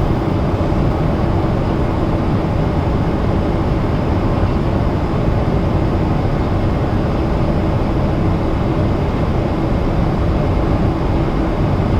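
Steady cabin noise of a Boeing 777-300ER in cruise: an even rush of airflow and the sound of its GE90-115B engines, heard from inside the cabin.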